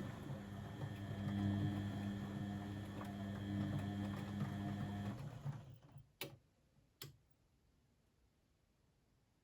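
Blomberg WAF 7442 SL washing machine mid-cycle: a motor hums steadily with light ticking, stops about five seconds in, then two sharp clicks follow, like relays switching, before a quiet pause.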